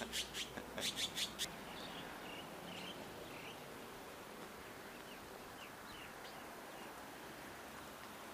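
Faint, scattered short bird chirps over a steady outdoor background hiss, with a few short clicks in the first second and a half.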